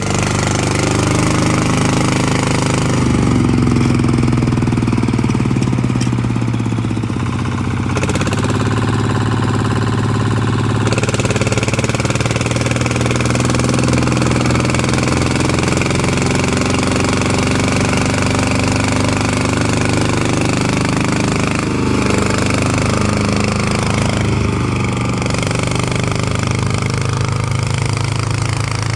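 Yanmar 150 tractor's diesel engine running steadily throughout, its pitch and tone shifting a few times.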